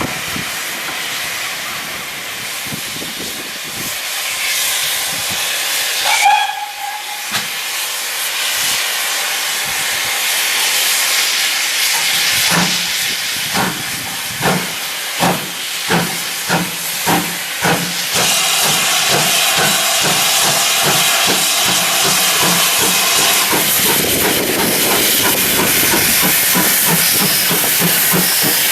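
Steam locomotive hissing, with a short whistle about six seconds in, then getting under way: its exhaust beats start about halfway through, come quicker and quicker, and merge into a steady rush of steam and exhaust.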